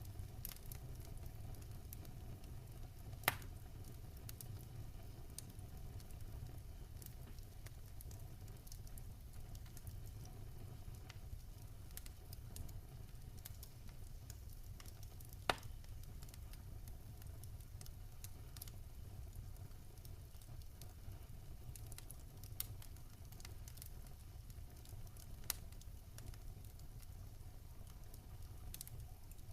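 Wood fire crackling in a fireplace: a steady low rumble with scattered small pops, and two sharper pops, about three seconds in and about halfway through.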